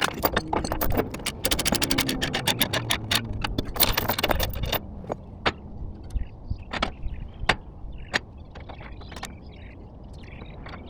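A low engine rumble with a dense run of sharp metallic clicks and rattles through the first half. Later only occasional single clicks remain, over a quieter rumble.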